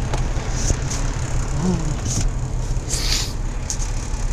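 Steady low engine drone heard inside the cab of a Peterbilt 379 truck, with several brief hissing sounds and a short faint glide in pitch about halfway through.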